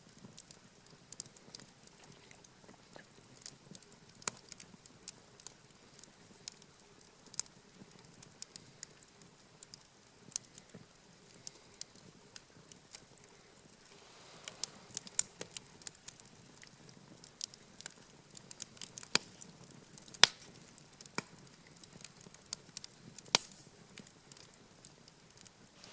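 Wood campfire crackling, with irregular sharp pops and snaps; a soft rush of flame grows from about halfway, with the pops becoming louder and more frequent.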